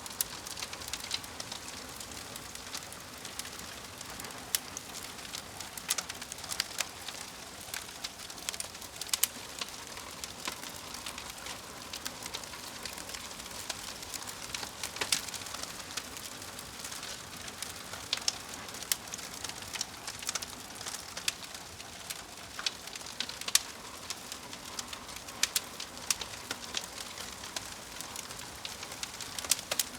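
Wood fire crackling: irregular sharp pops and snaps, some much louder than others, over a steady soft hiss.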